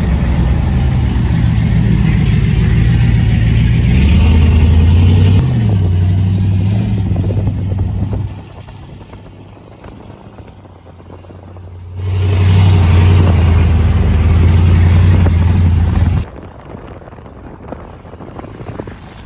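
Pickup truck engine running loud with a deep, low note that shifts in pitch about five seconds in, drops away for a few seconds, comes back loud, then eases off near the end.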